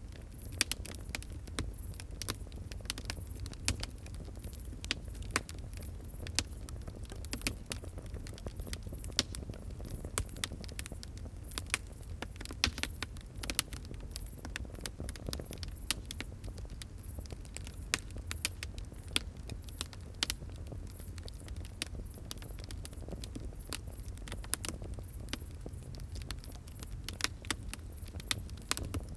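Wood fire crackling: dense, irregular sharp pops and snaps over a steady low rumble.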